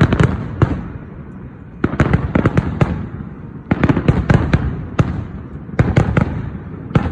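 Fireworks going off in a dense barrage: clusters of rapid sharp bangs every second or two, with many shells going off close together.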